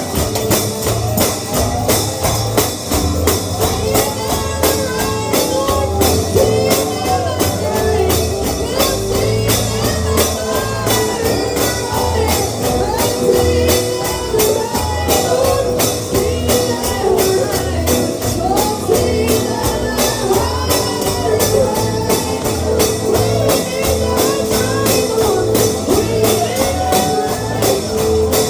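Appalachian holiness gospel band music with no recognised words, likely an instrumental stretch. A steady tambourine beat runs over guitar and a walking bass, with a held, sliding melody line on top.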